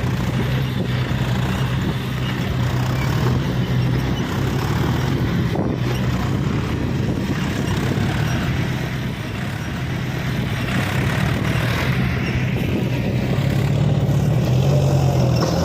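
Sonalika tractor's diesel engine running at a steady, even note.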